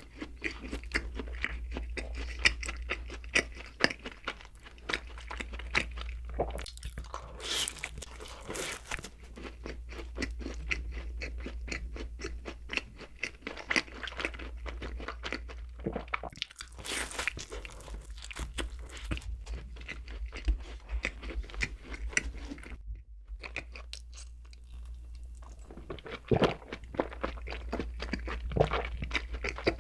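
A person chewing and biting donuts close to the microphone: a dense run of small wet mouth clicks and bites, with a short lull a little past two-thirds of the way through, over a steady low hum.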